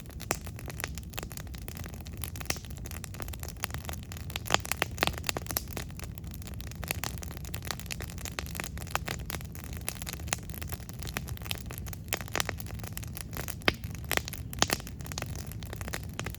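Wood campfire crackling, with many quick sharp pops and snaps of burning wood, a few louder than the rest, over a low steady rumble.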